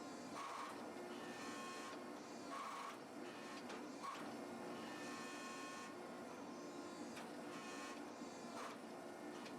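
Hydraulic forging press running with a steady hum, its tone changing in repeated cycles every couple of seconds as it squeezes a hot steel bar between drawing dies.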